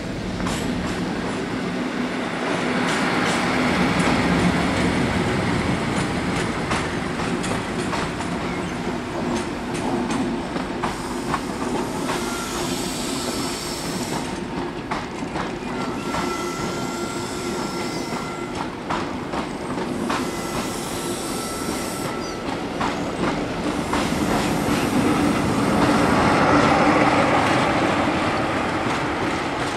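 Diesel-hauled passenger train running past at low speed, coaches clicking and clattering over rail joints and points, with brief high wheel squeal through the middle. The diesel engine sound swells twice: about four seconds in as the leading end passes, and again near the end as the trailing Class 47 locomotive passes close by.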